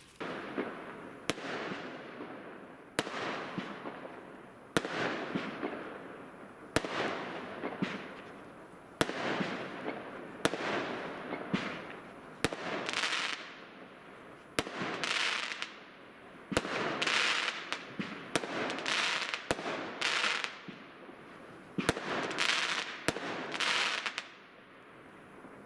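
Fireworks going off in a steady series: a sharp crack about every two seconds, each followed by a crackling hiss that fades within a second or so.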